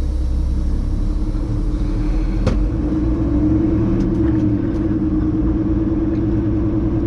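Semi-truck's diesel engine running, heard from inside the cab as the truck creeps forward; its pitch rises a little about three seconds in. A single sharp click about two and a half seconds in.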